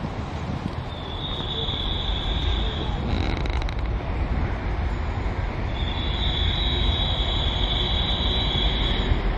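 Class 196 diesel multiple unit approaching and drawing into a station platform: a low rumble that slowly grows louder. A steady high-pitched squeal comes briefly about a second in, then again for several seconds from about halfway.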